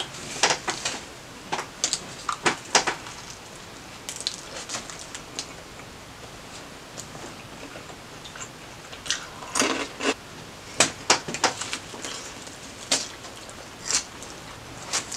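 Close-up eating sounds: a bite into a toasted sub sandwich and its chewing, then Hot Cheetos bitten and crunched in the second half, heard as clusters of sharp crackles a few seconds apart.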